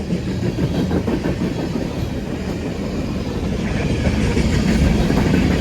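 Train rolling past, a steady rumble of wheels on the rails that grows somewhat louder in the second half.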